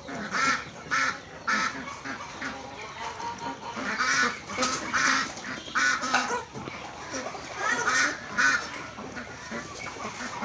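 A flock of domestic ducks and geese calling, with short honks and quacks repeating and overlapping one another.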